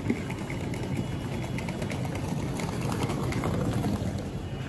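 Steady low rumble of a standing intercity passenger train at a station platform, with one sharp knock right at the start.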